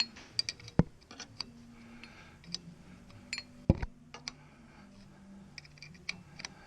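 Scattered light metallic clicks and clinks of hand tools and small parts being handled, with two sharper knocks, one about a second in and one a little before four seconds.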